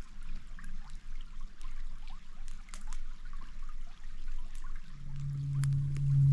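Small stream trickling and babbling, with many small splashes. About five seconds in, a steady low hum starts and holds.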